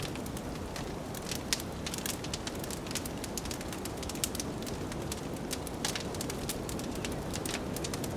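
Wood fire crackling, with frequent irregular sharp pops and snaps, over a steady rushing noise of blizzard wind.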